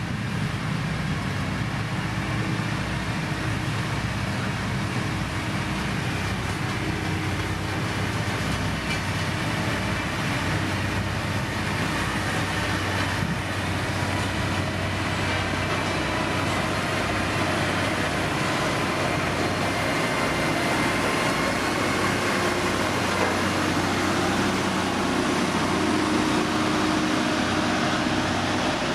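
Diesel engine of heavy road-building machinery, a motor grader or road roller, running steadily under work. It grows slightly louder toward the end.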